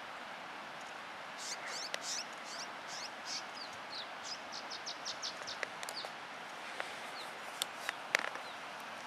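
A songbird singing: a run of quick, high, downward-sliding chirps from about a second and a half in to about six seconds, over a steady hiss. A few sharp clicks follow near the end.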